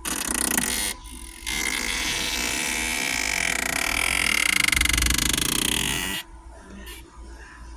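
Creepy noise from the dashboard heater area: a short burst, then after a brief pause a longer noise of about five seconds that grows louder near its end and cuts off suddenly. It is the sign of a failed HVAC blend door.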